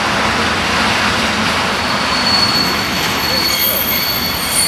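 Train rolling through a station, a steady rush of wheels on rails; from about two seconds in a high, steady wheel squeal joins it.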